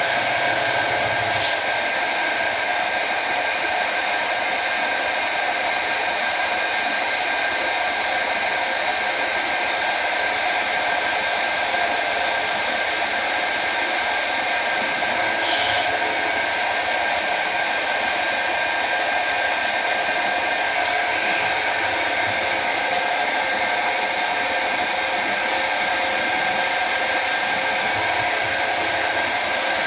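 Jet TL-25 lathe running through a machining cycle: a steady whir with several constant tones that holds at an even level.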